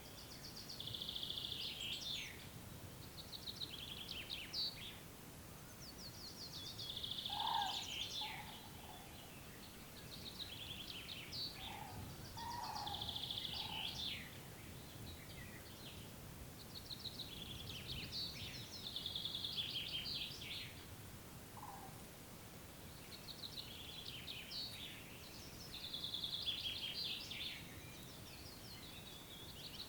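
A songbird repeats a short trilled song phrase every few seconds over a steady background hiss. A few lower, fainter calls from another bird come in between.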